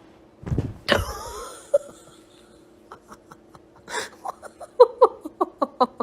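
A heavy thud and a sudden sharp cry falling in pitch, then a person laughing in short bursts.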